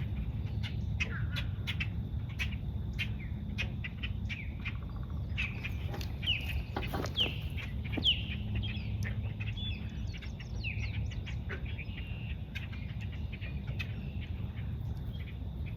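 Several wild birds chirping and calling, with a few louder short falling notes about six to eight seconds in, over a steady low rumble.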